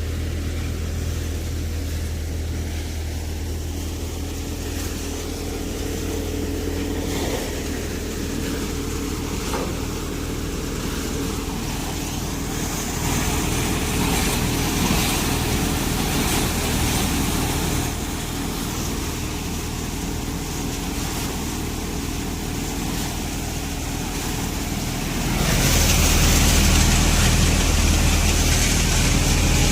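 New Holland 4710 tractor's diesel engine running steadily under load while driving a Vardhman multicrop thresher, with the thresher's whirring noise over it. The sound swells for a few seconds around the middle and gets louder again near the end.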